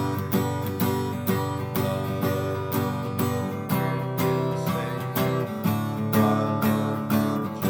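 Acoustic guitar strummed in a steady rhythm, about three strokes a second.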